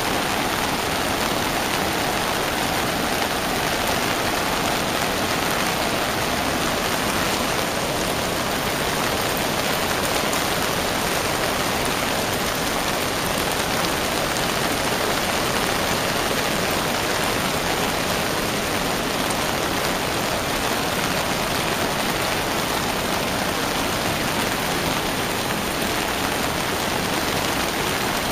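Heavy rain falling in a steady, even hiss, mixed with the rush of floodwater.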